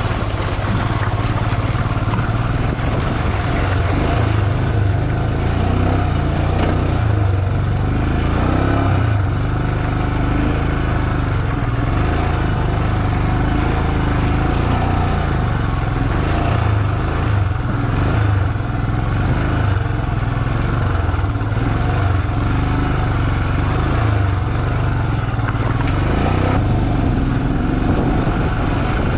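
Motorcycle engine running steadily while being ridden, a constant low drone under an even hiss of road and wind noise.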